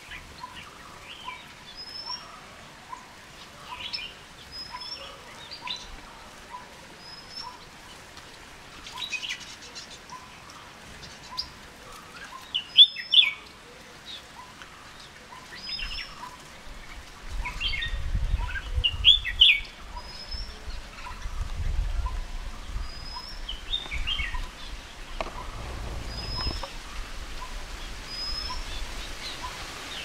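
Small songbirds chirping and calling: a short high note repeats about every second and a half, and louder chirping phrases come in now and then, the strongest near the middle. A faint ticking runs along about twice a second, and a low rumble joins in the second half.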